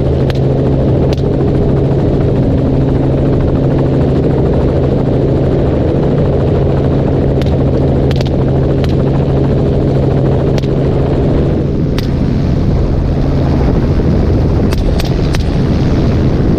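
Helicopter in flight heard from on board: a loud, steady rotor and engine drone with a low hum, a few faint sharp clicks scattered through it. About twelve seconds in, the hum fades and leaves a rougher rushing noise.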